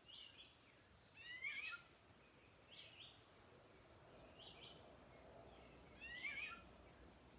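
Faint bird calls: short chirps repeated every second or two, with two louder, longer stuttering phrases that drop in pitch, about a second in and again about six seconds in.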